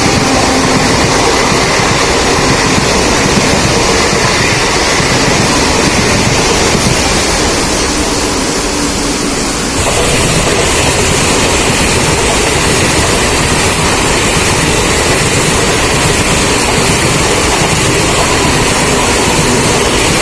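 Mumbai suburban electric local train running at speed in heavy rain: a loud, steady rush of wheels on track, wind and rain. About halfway through the noise turns suddenly brighter and hissier.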